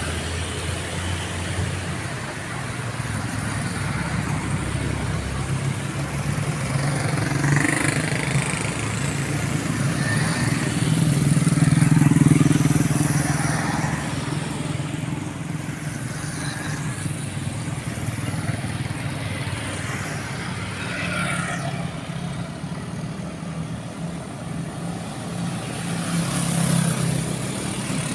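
A vehicle engine running steadily, growing louder for a few seconds near the middle.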